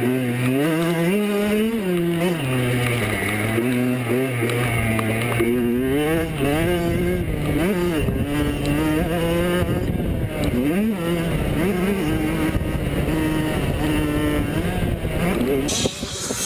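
85cc two-stroke motocross bike engines racing, the pitch rising and falling again and again as the riders work the throttle and shift gears.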